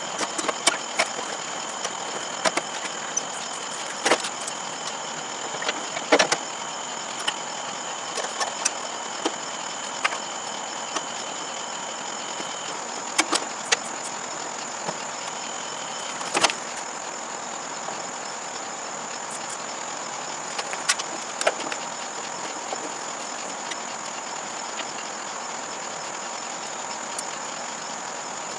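Scattered metal clinks and knocks of hand tools and parts being handled while a riding mower's deck is refitted, over a steady background hiss with a constant high tone.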